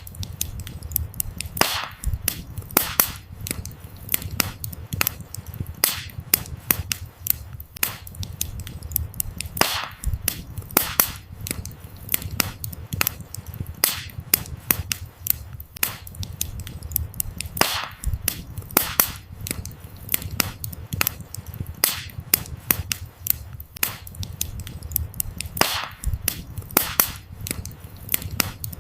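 Burning firewood crackling, with many quick snaps and pops over a low, steady rumble of flames. A louder pop stands out about every eight seconds.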